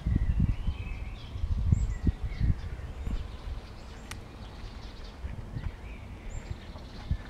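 Small birds chirping repeatedly in short calls, with irregular low rumbling bumps in the first couple of seconds.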